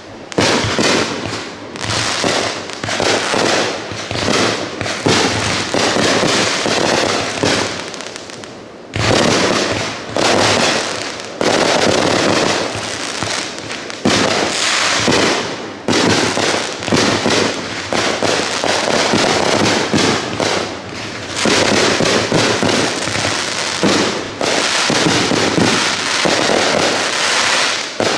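Aerial fireworks going off in a rapid, near-continuous string of bangs, with a short lull about eight seconds in before the barrage picks up again.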